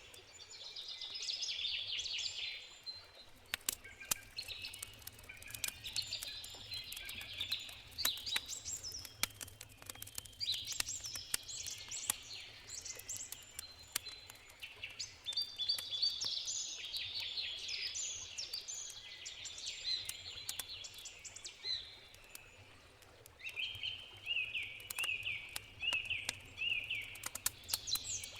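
Several songbirds singing and chirping, with one bird repeating a short phrase over and over near the end. Sharp pops and crackles from a burning wood campfire come through, thickest in the first half.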